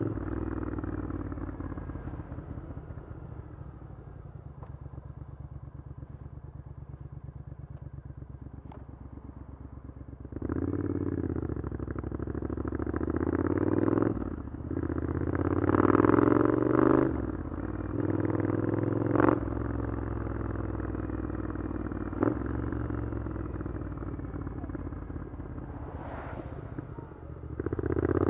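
Triumph Scrambler 900's parallel-twin engine through an Arrow exhaust, ridden at low revs for about ten seconds. It then pulls away under throttle, the pitch rising and breaking several times through the gear changes, eases off, and pulls hard again near the end.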